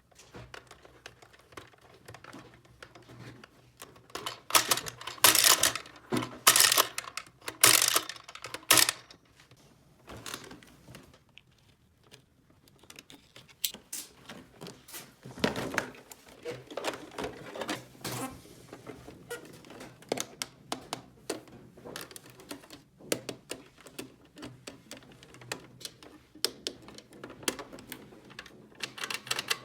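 Small plastic toy pieces being handled and set down: repeated clicking and clattering, loudest in a cluster of knocks a few seconds in, then lighter scattered clicks.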